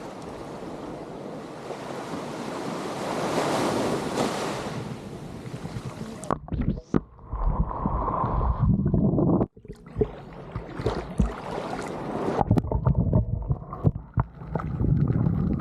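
Sea surf washing onto the shore, a broad rush that builds and then fades over the first six seconds. After that comes low rumbling, with scattered knocks on the microphone.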